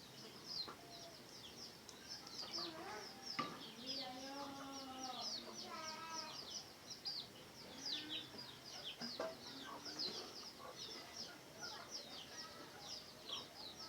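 Red junglefowl clucking and calling, the calls clustered in the first half, over a constant chorus of quick high chirps.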